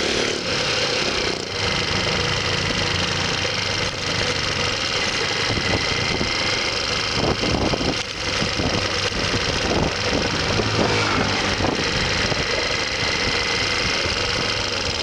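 Motorcycle engine running steadily under a constant hiss.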